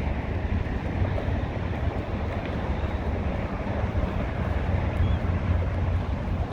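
Wind buffeting the microphone: a steady, fluctuating low rumble with no distinct calls or other events.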